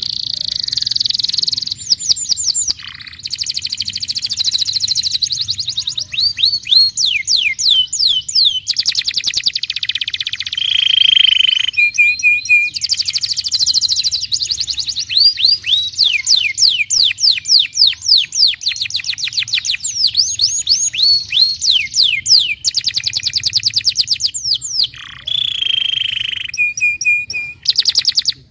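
Domestic canary singing a loud, fast song of rolling trills: runs of rapidly repeated downward-sweeping whistled notes, the phrase changing every second or two, with a few brief pauses.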